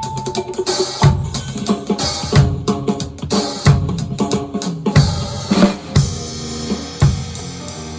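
Drum kit played along with a recorded song, bass drum and snare over the band's pitched backing music, with strong accented hits about every 1.3 seconds. The hits thin out near the end.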